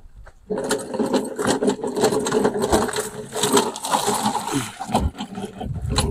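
Small single-cylinder lawnmower engine running with a rapid, irregular mechanical clatter. It starts about half a second in and thins out about five seconds in.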